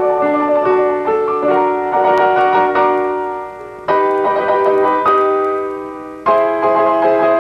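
Solo piano playing chords, each one struck and left to ring, with loud fresh chords about four seconds in and again near the end.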